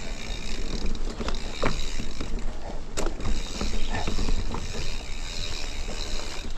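Mountain bike rolling over rough trail: the bike rattles and clicks, with scattered sharp knocks over a steady low rumble.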